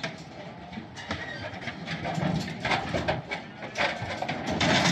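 Cattle hooves clattering and knocking on a metal livestock trailer floor and ramp as the cows move off, an uneven run of bangs and rattles that gets louder toward the end.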